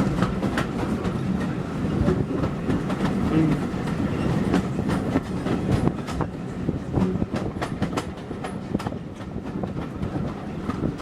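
Steam-hauled passenger train running on the track: a steady low rumble with wheels clicking and knocking over the rails.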